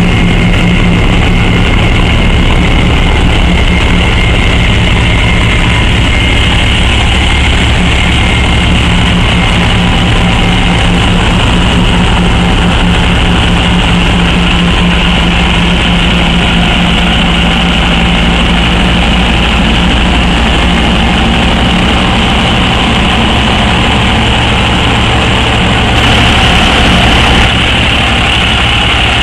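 Diesel engine idling steadily, with a brief change in its sound near the end.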